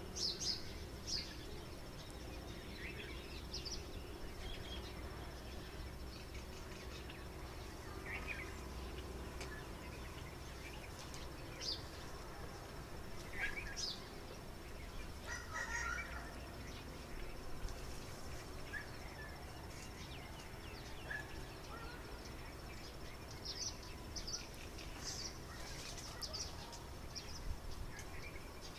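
Background noise with short bird chirps scattered every second or two, over a faint steady high whine.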